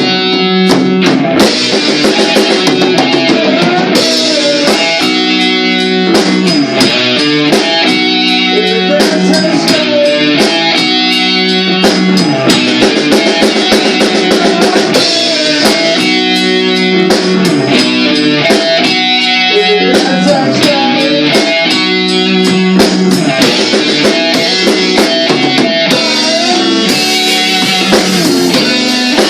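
A rock band playing a song at practice: an electric guitar plays a repeating riff over a drum kit, loud and continuous.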